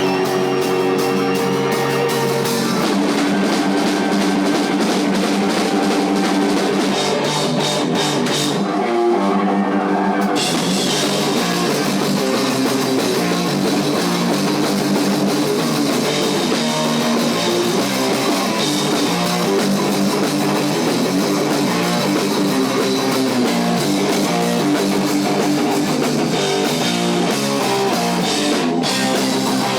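Heavy metal band playing live, with electric guitars and a drum kit. The high end of the sound thins out for a couple of seconds about nine seconds in, then the full band comes back.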